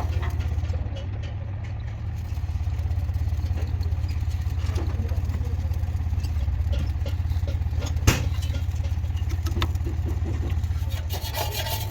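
An engine running steadily with a low, even rumble, and a single sharp knock about eight seconds in.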